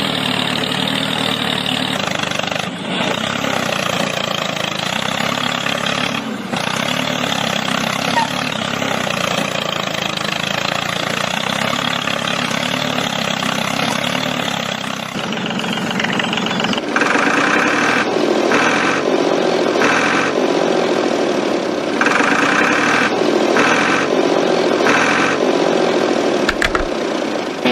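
An engine running steadily. About two-thirds of the way through, the sound changes to a regular pulsing.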